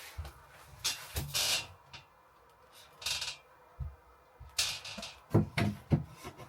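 Work noises from fitting wooden ceiling panels: three short scraping, rustling sounds and a few light knocks, the loudest knocks near the end.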